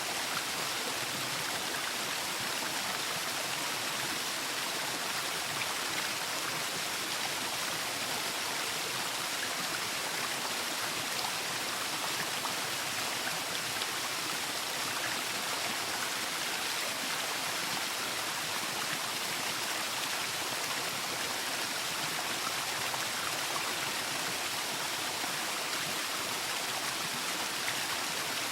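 Waterfall: falling water rushing steadily and evenly, with no changes in level.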